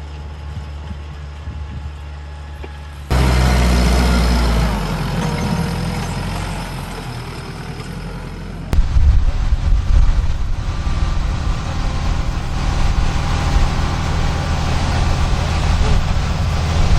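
Small tractor engines running steadily. The sound changes abruptly twice, about three seconds in and again near nine seconds, the second with a rapid low pulsing.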